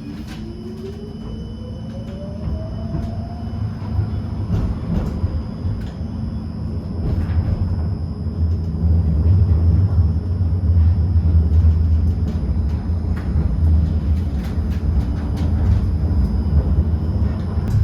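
Amsterdam tram running on its rails: a whine rises in pitch over the first few seconds as it picks up speed, then a low rumble grows louder, with scattered clicks.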